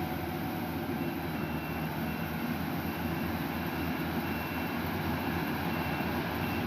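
A rice-harvesting machine's engine running steadily. A faint high note repeats in short even pulses from about a second in.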